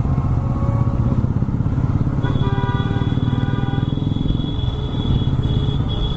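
TVS Raider 125's single-cylinder engine running under way, a steady rapid exhaust pulse. About two seconds in, a steady high tone joins it and carries on to the end.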